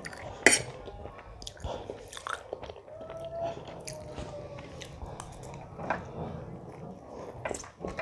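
Close-miked chewing and biting of food, with scattered wet mouth clicks and crackles and one sharp click about half a second in.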